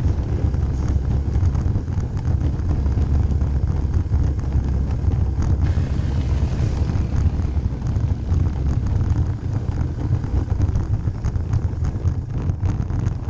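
Suzuki Ozark quad bike's single-cylinder engine running steadily under way, with wind buffeting the microphone.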